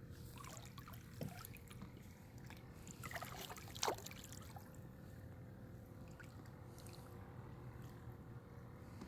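Water splashing and trickling against a kayak, with scattered small splashes and one sharper hit just before four seconds in, over a steady low hum.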